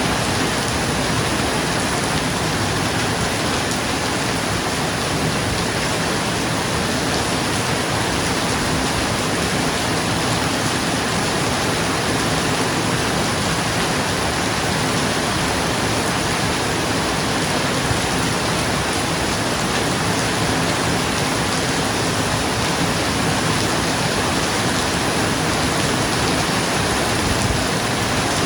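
Steady heavy rain falling on a roof, a dense even hiss with no thunder heard.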